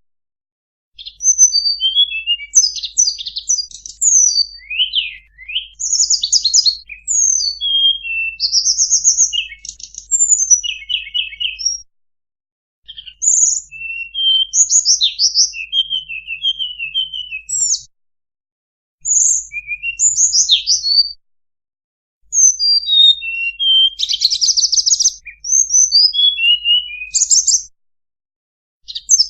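Recorded song of a tledekan bird, used as a lure call: rapid, varied high chirps, slurred notes and short trills in phrases of a few seconds, with brief silent pauses between them.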